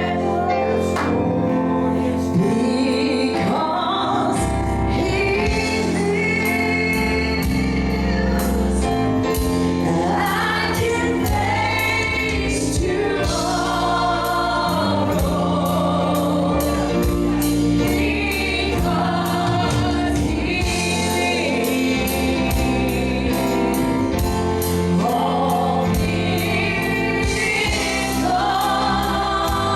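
Congregational gospel music: a choir singing over a band, with bass and a steady drum beat.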